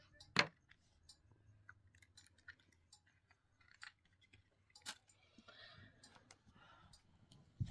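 Faint, scattered clicks and light handling noises, with two sharper clicks, one about half a second in and one about five seconds in.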